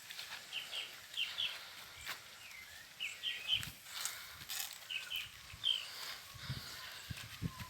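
Birds chirping in short high notes, again and again, with scattered low knocks and rustles.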